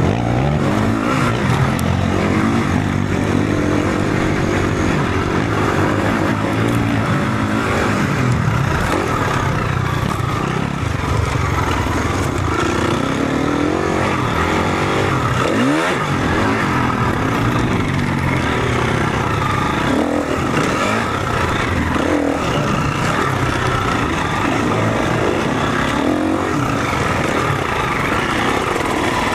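Four-stroke enduro motorcycle engine running hard, its revs rising and falling over and over as the rider works the throttle and gears. About halfway through, the revs drop sharply and climb again.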